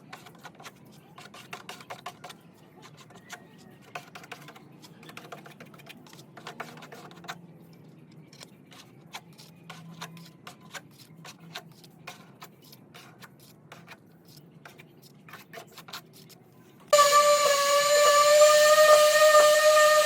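Scattered light taps and clicks of hand work on metal parts. About three-quarters of the way in, a small high-speed power tool starts suddenly and runs loud with a steady whine, its pitch dipping briefly under load near the end.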